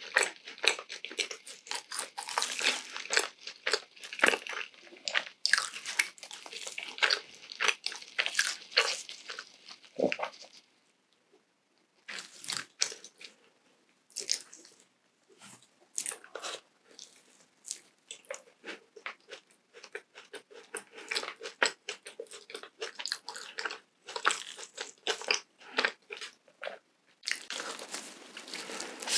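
Close-miked biting and chewing of a crumb-topped Krispy Kreme glazed doughnut: a rapid run of small crunches and mouth clicks. They stop for about a second and a half a third of the way in, then resume more sparsely and grow denser again near the end.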